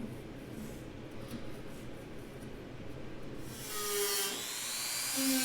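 Dremel rotary tool with a small cup brush spinning up about three and a half seconds in, giving a high whine that rises in pitch along with a scratching hiss as it knocks paint off sheet steel.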